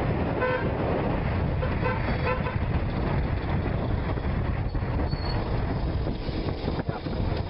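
Vehicle horn honking a few short times in the first two and a half seconds, over a steady low rumble of engine and road noise.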